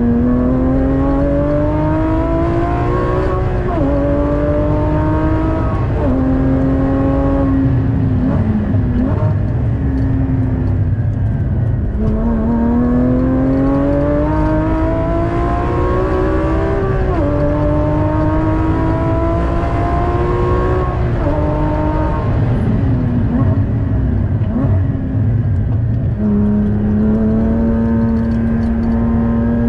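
Porsche Cayman GT4's naturally aspirated 3.8-litre flat-six heard from inside the cabin, pulling up through the gears with the revs rising and dropping sharply at each upshift, then falling under braking with short rev blips on the downshifts; the pattern runs twice, with steady road and tyre rumble underneath.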